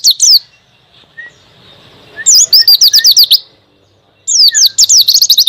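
Pleci (white-eye) singing in the wild 'ngalas' style: fast runs of high, sliding notes in three bursts with short pauses between them, and a few soft, lower chips in the gaps.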